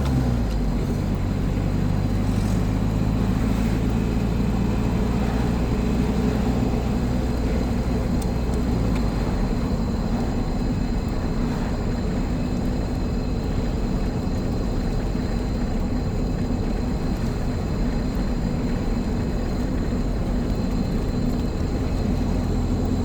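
Old car's engine running under way, with steady road noise. The low engine note shifts about a second in and again around nine seconds in.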